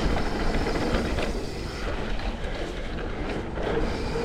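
Mountain bike riding fast down a dirt jump trail: wind rushing over the rider-mounted camera's microphone, with tyre roar and the knocking and rattling of the bike over the bumps.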